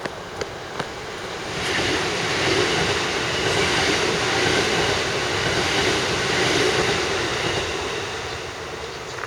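Kintetsu Kashihara Line electric train passing close by: its rumble and wheel noise swell about a second and a half in, stay loud for several seconds, then fade as it goes away.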